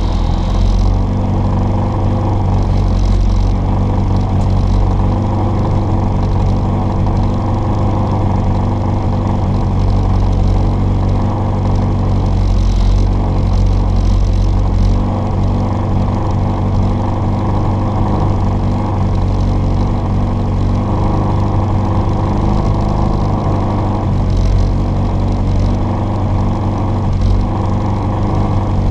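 Mini Cooper S engine with an Arden 8-port cylinder head and twin Weber 40 DCOE carburettors, running continuously under load as the rally car is driven along a stage.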